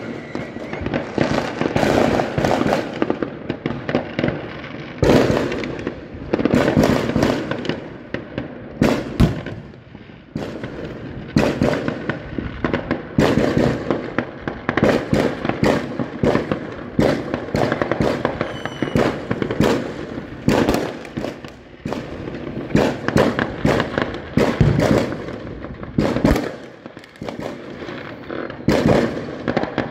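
New Year's Eve consumer fireworks going off all around: a dense, unbroken run of bangs, firecracker strings and crackling, easing off briefly twice.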